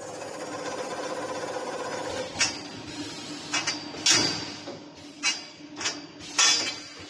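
CNC double-head automatic-feeding chamfering machine running: a steady motor hum for the first two seconds, then about six sharp metallic clacks over the next four seconds, two of them a little longer.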